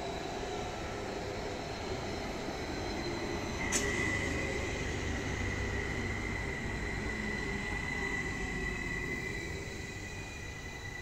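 Train running on the rails with a steady low rumble. A little under four seconds in there is a sharp click, and then a high, steady wheel squeal that holds on.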